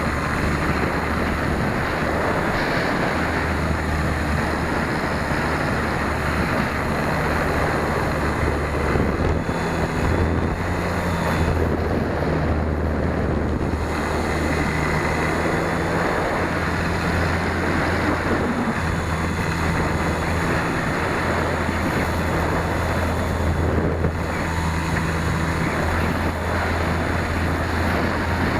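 Wind rushing over a tail-mounted keychain camera's microphone on an RC Super Cub in flight, over the low, steady hum of its electric brushless motor and propeller. The hum changes pitch and level a few times, as the throttle is moved.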